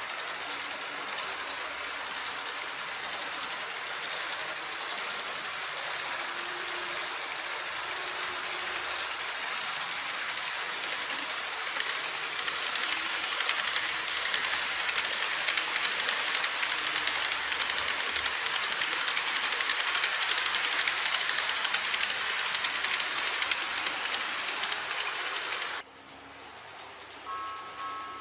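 Model train running along the track, a steady rattling whir of wheels and motor that grows louder about halfway through, then cuts off abruptly near the end.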